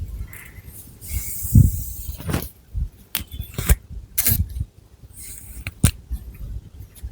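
Close-miked long fingernails scratching a scalp and moving through long hair: irregular hissing scratches and rustles, sharp nail clicks and taps, and a few low thuds of hands against the head.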